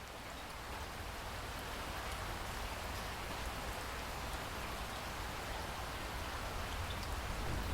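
Steady rain falling with scattered drips, growing louder over the first two seconds and then holding even.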